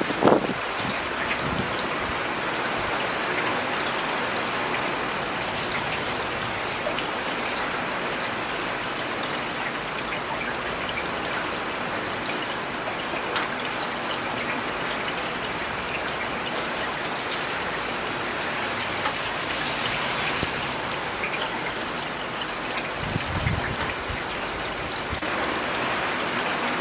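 Steady rain falling in a city, an even hiss of drops pattering on surfaces with scattered individual drips. A brief low rumble comes just after the start and another a few seconds before the end.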